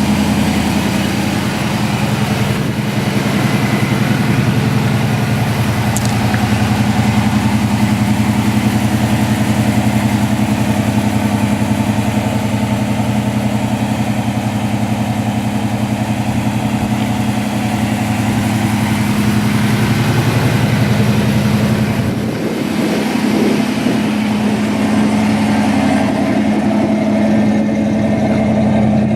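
1985 Ford Mustang GT's 302 (5.0 L) V8 idling steadily through its Flowmaster exhaust, warming up after a cold start.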